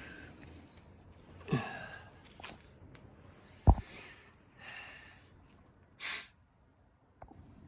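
A person breathing heavily with sighs and short airy breaths, one falling-pitch sigh or groan, and a single sharp knock about halfway through.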